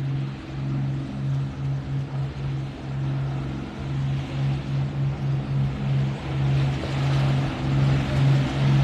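Boat engine running as a boat passes through the inlet: a steady low drone that throbs about twice a second, with water noise building near the end.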